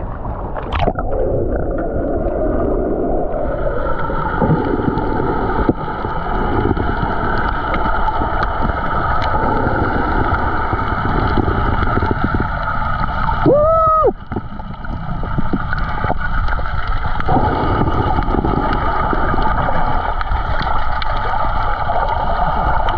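Steady, muffled rushing water noise, as heard through an action camera held underwater, with a brief pitched squeal about fourteen seconds in.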